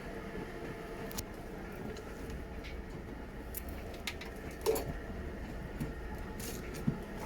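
Washing machine running with a steady mechanical hum and low rumble, a few light clicks and one sharper knock a little past the middle.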